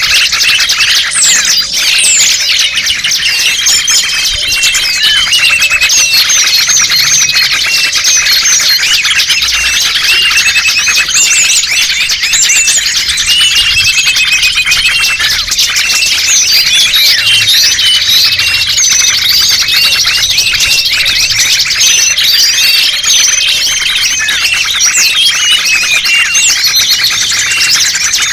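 A dense chorus of many small songbirds chirping and twittering without pause, high-pitched and loud: a bird-lure (pikat) recording for catching small birds.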